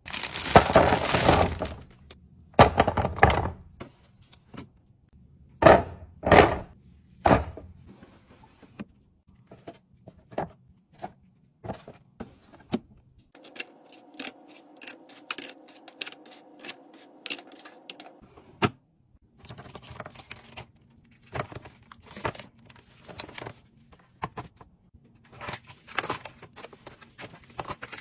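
Fridge restocking: food containers and packaging being handled and set down, a run of clunks, clicks and rustles, with a steady hum for about five seconds midway.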